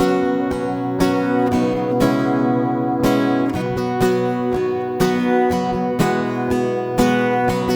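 Acoustic guitar strumming chords in an instrumental break of a worship song, with a strum about once a second.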